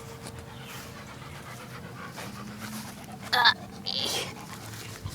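Labrador Retriever–Chow Chow mix dog panting, excited while holding its Frisbee, with a brief louder sound a little past halfway.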